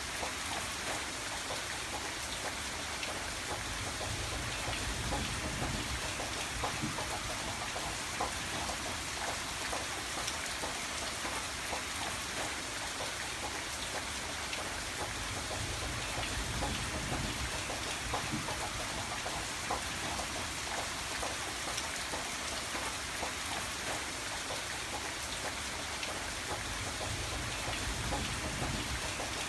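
Steady rainfall, with many individual drops ticking on a surface over an even hiss. A low rumble swells and fades a few times underneath.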